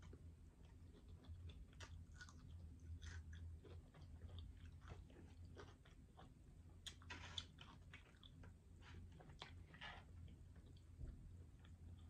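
Quiet, close-miked chewing and biting of a breaded fried chicken wing: irregular wet smacks and small crunches, with a louder crunch about seven seconds in, over a faint steady low hum.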